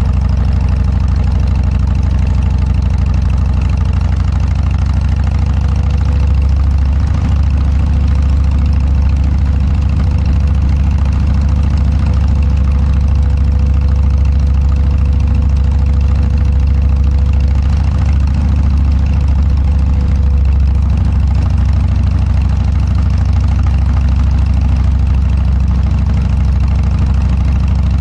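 Exhaust of a Harley-Davidson Dyna's air-cooled V-twin engine through an aftermarket Motorstage muffler, running steadily with a deep, low exhaust note that holds the same pitch throughout.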